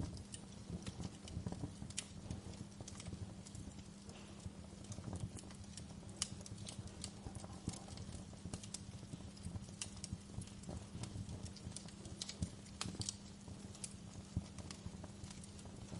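Fire crackling, with irregular sharp pops and snaps over a low rumble of burning flames and a faint steady hum.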